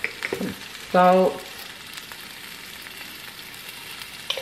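Cubed potatoes sizzling as they fry in olive oil in a skillet, a steady hiss, with a few light clicks near the start and near the end.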